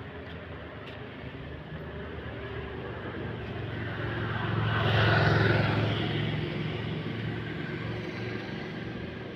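A road vehicle passing by, growing louder to a peak about halfway through and then fading, over a steady low engine hum.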